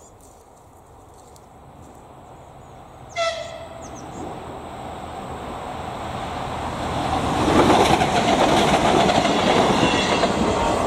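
ČD class 843 diesel railcar giving one short horn blast about three seconds in, then approaching the crossing. Its engine and wheel rumble grows steadily louder and is loudest from about seven and a half seconds on.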